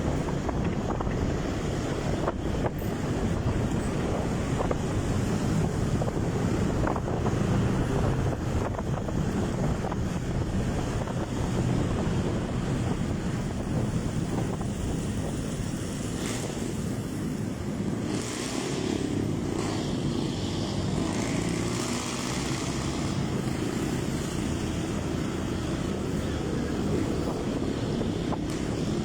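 Motorcycle running steadily on the road, with wind rushing over the microphone.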